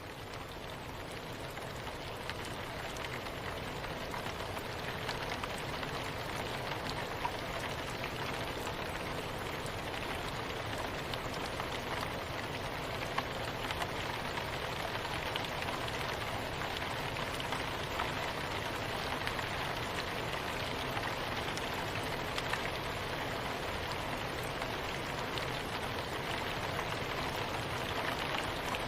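Soft, steady rain, with a dense patter of small drops falling on a surface. It fades in gently over the first few seconds, then holds even.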